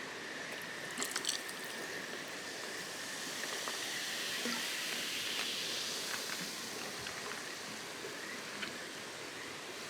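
Wood campfire crackling, with a quick cluster of sharp pops about a second in and scattered faint ticks later, over a steady rushing hiss that swells for a few seconds mid-way.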